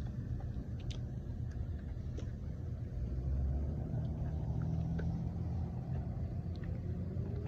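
Low rumble of a motor vehicle engine running close by, getting louder about three seconds in, with a faint rising whine near the end.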